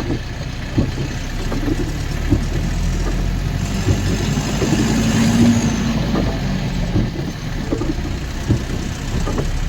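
Lorry's diesel engine running steadily inside the cab while driving over a rough, potholed road, with occasional knocks and rattles from the cab. A hiss swells and fades around the middle.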